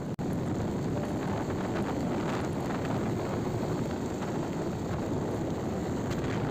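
Wind buffeting the microphone on a moving motorcycle, with steady vehicle and road noise underneath.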